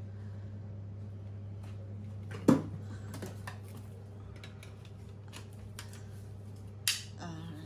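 Hard plastic parts of a new Shark cordless vacuum being handled and fitted together: scattered clicks and knocks, the loudest about two and a half seconds in and another near seven seconds, over a steady low hum.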